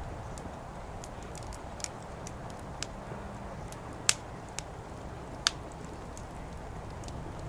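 Burning firewood crackling: scattered sharp pops at irregular intervals, two of them louder a little past the middle, over a steady low background hum.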